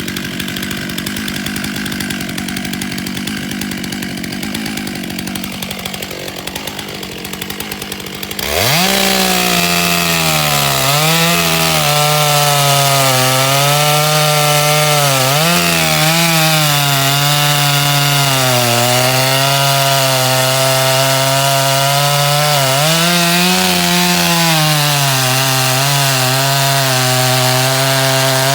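Two-stroke chainsaw cutting pine wood. It runs quieter for about the first eight seconds, then revs sharply to full throttle. Its pitch sags and recovers several times as the chain bites into the wood.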